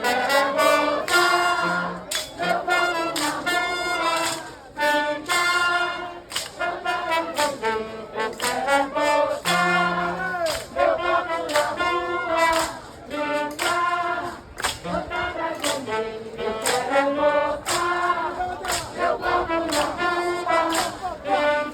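Live carnival band playing: brass instruments carry a melody over steady, driving percussion.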